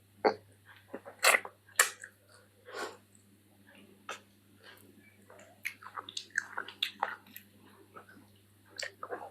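Close-miked eating sounds of someone chewing chicken feet in curry with rice: irregular wet smacks and clicks, the loudest pair about a second and a half in.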